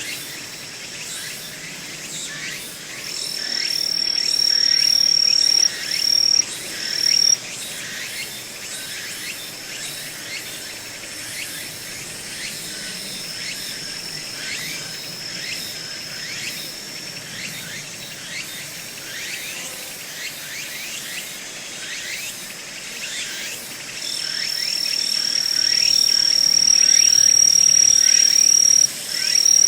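Forest ambience of insects singing: a high, steady trill swells up to become the loudest sound and then breaks into a few short bursts. This happens twice, a few seconds in and again near the end, over a constant chorus of short, quick falling chirps.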